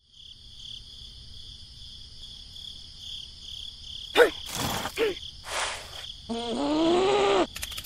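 Steady cricket chirping, laid in as background ambience. About four seconds in come two quick falling squeaky cartoon sound effects and short noisy bursts, then a longer rising squeaky tone near the end.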